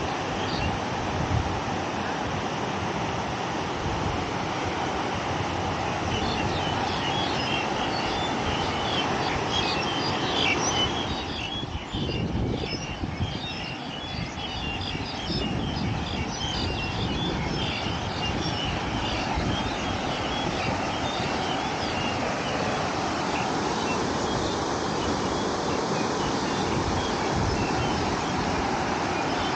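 Steady rush of fast-flowing water in a swollen canal, running high after a recent flash flood, with scattered faint high ticks or chirps over it for a stretch in the middle.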